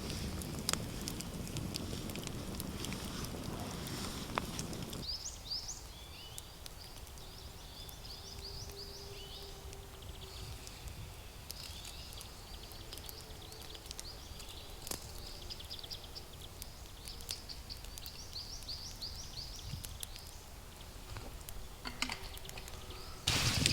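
Small birds chirping in quick runs of short high notes, with faint scattered clicks. A low steady rush is heard at first and cuts off abruptly about five seconds in; a louder sound starts just before the end.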